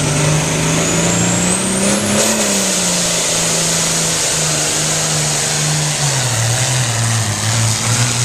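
John Deere 4955 tractor's turbocharged six-cylinder diesel running hard on a tractor pull. Its pitch rises about two seconds in and eases back, then drops lower near the end, and a thin high whine climbs alongside the first rise.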